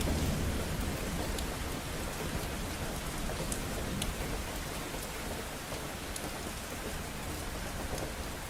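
Steady rain of a thunderstorm pouring down, with a few sharp drip ticks on a hard surface. A low rumble of thunder dies away over the first couple of seconds.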